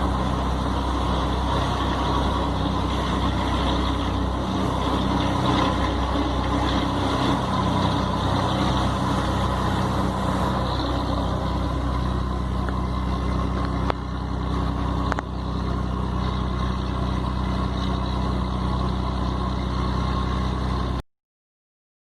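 Scania 113 truck's six-cylinder diesel running steadily on the road, with two short clicks about a second apart, each with a brief dip in the engine sound. The sound cuts off suddenly near the end.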